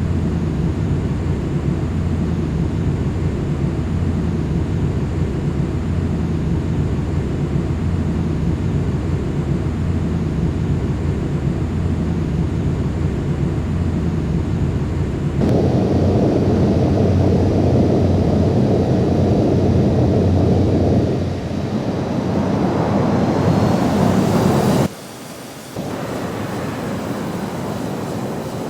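Strong wind rumbling on the microphone over the roar of a Boeing 737-800's CFM56 jet engines. The noise steps up louder about halfway through, and a faint rising whine shows near the end, just before the sound drops out for about a second.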